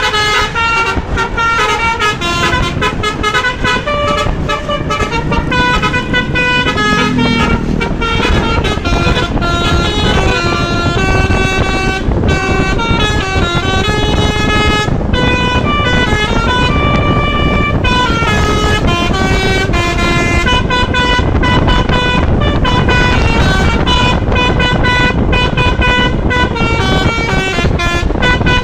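Bus 'basuri' musical air horn playing a tune non-stop, a rapid run of short notes that step up and down in pitch, over the rumble of the moving bus.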